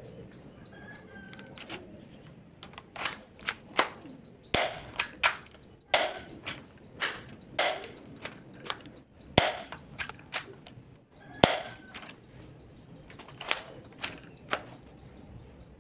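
Spring-powered airsoft gun being handled and fired: a long run of sharp, irregularly spaced snaps and clicks, some close together in pairs, from cocking and shooting.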